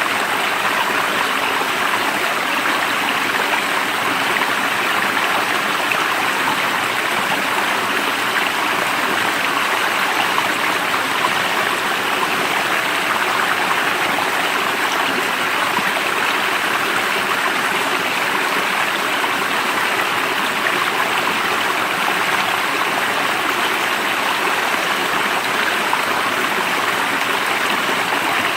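Stream water flowing, a steady, even rush that does not change.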